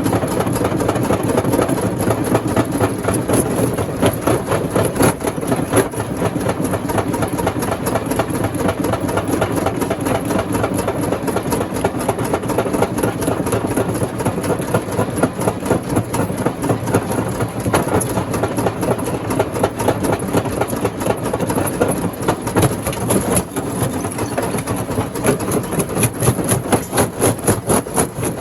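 Rock crusher running under load: a steady engine with constant clattering and knocking of stone being broken. Near the end the noise takes on a quick, regular pulsing beat.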